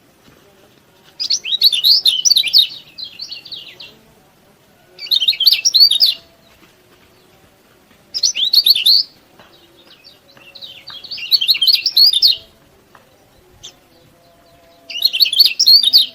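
Kecial kuning (lemon-bellied white-eye) singing: five bursts of fast, high twittering chirps, each lasting one to two seconds, with short pauses between them.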